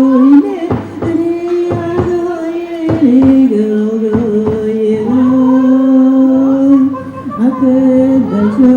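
Sami folk singing: voices hold long notes that step up and down between a few pitches. There are several sharp knocks in the first half.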